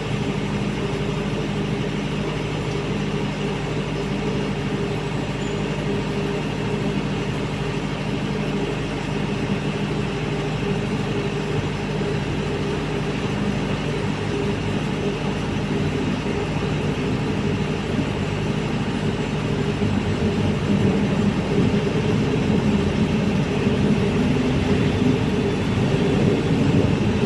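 Diesel engine of a 60 kVA Krisbow generator set running steadily, getting a little louder in the last several seconds.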